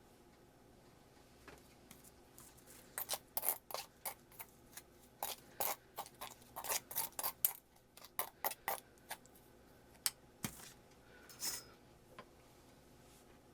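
A run of irregular sharp clicks and short scrapes from hand work with small hard objects or tools, densest in the first half and thinning out toward the end.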